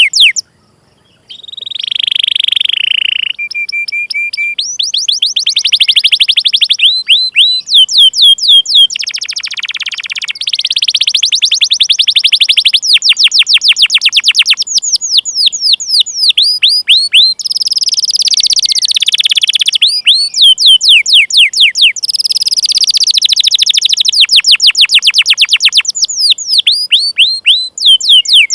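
Domestic canary singing: long runs of quick, repeated downward-sweeping 'cuit cuit' chirps alternating with fast rolled trills, after a brief break about a second in.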